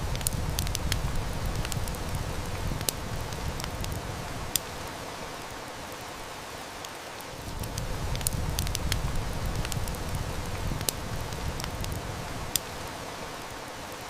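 Steady heavy rain hiss layered with a wood fire crackling, with sharp pops now and then. A low rumble swells in twice, from the start to about four and a half seconds and again from about seven and a half to twelve and a half seconds.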